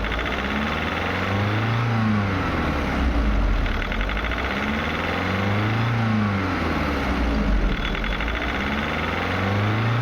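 VW Polo diesel engine running through its injector adaptation routine, its speed rising and falling in a slow cycle about every four seconds. A fast ticking comes and goes in step with the cycle.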